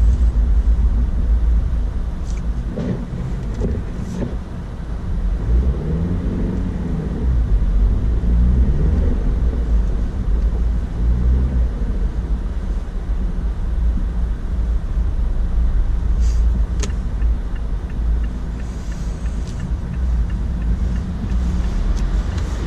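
Inside the cabin of a 2016 Mazda CX-9 driving on a snowy road: a steady low rumble of tyres and drivetrain, with the engine note rising and falling a few times in the middle as the driver works the throttle on slippery snow. A few faint clicks are heard along the way.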